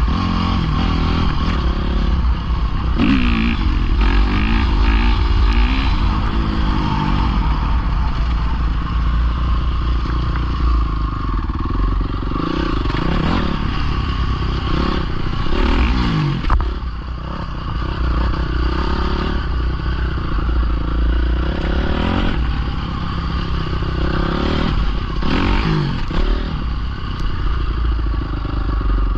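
Dirt bike engine running under riding load, revving up and easing off again and again, with pitch rising and falling several times.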